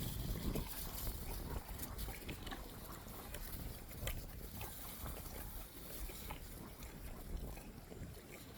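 A horse chewing cut-up apple pieces, with faint, irregular crunches and clicks.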